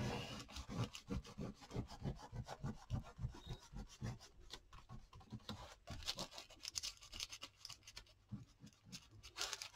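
Pen or marker scratching on paper in quick, uneven strokes: a black border being drawn around a journal page.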